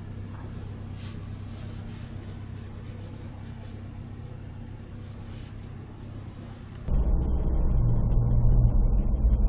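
Steady low hum of a running vehicle engine. About seven seconds in it cuts abruptly to a much louder, muffled low rumble.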